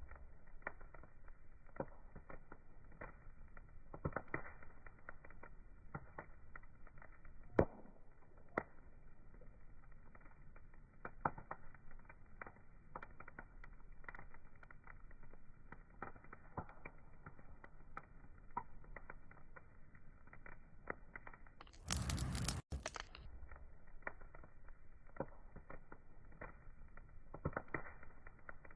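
Wood fire crackling, with irregular sharp pops and snaps over a soft steady hiss. About three-quarters of the way through, a brief loud rush of noise cuts in for under a second.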